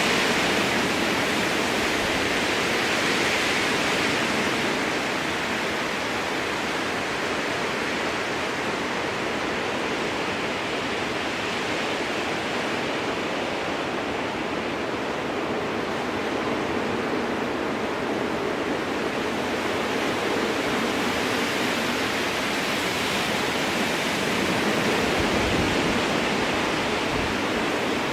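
Strong wind blowing through spruce trees: a steady rushing hiss that swells and eases slowly, a little louder in the first few seconds and again about 25 seconds in.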